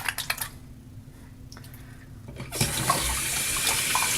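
A few faint clicks, then about two and a half seconds in a faucet is turned on and tap water runs steadily into a sink for rinsing shaving lather off the hands.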